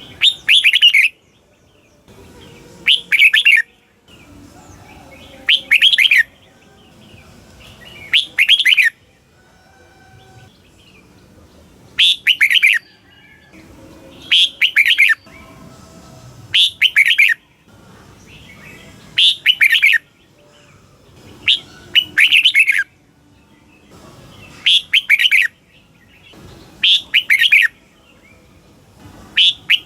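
Red-whiskered bulbul singing short, quick warbled phrases, one about every two and a half seconds, a dozen in all.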